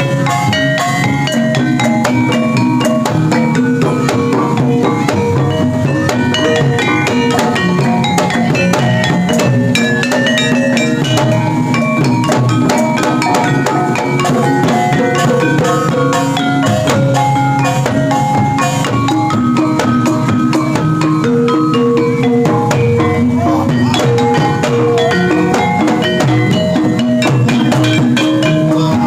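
Javanese gamelan ensemble accompanying jaran kepang, playing loudly: many short struck metallophone notes in a dense, steady interlocking pattern over drumming.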